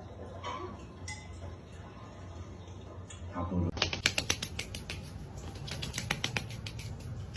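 Quick, irregular clicking taps, several a second, starting a little before halfway through.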